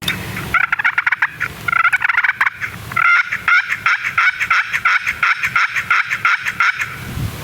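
Turkey yelping: a long run of rapid, evenly spaced notes, about four a second, stopping shortly before the end.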